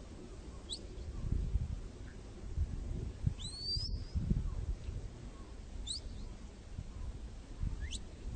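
A bird chirping four or five times, short high notes sweeping in pitch, over an uneven low rumble.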